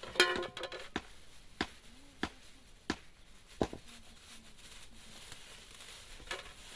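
A series of sharp, single knocks, about one every half to three-quarters of a second for the first few seconds, then a gap and more near the end; the first and loudest knock rings briefly with a tone.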